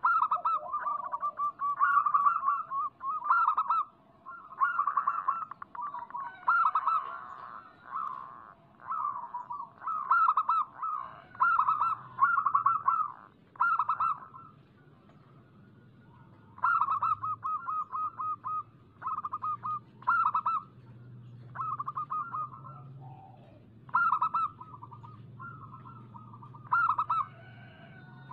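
Zebra doves singing: a run of short phrases of rapid, bubbly cooing notes, one after another with brief pauses. This is the lively song used as a lure to set other zebra doves singing.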